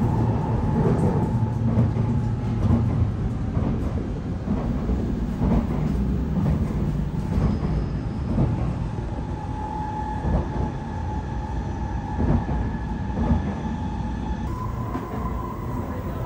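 Running noise of an N700A Shinkansen heard inside the car's deck area: a steady low rumble with a faint steady whine, the whine's pitch shifting slightly near the end.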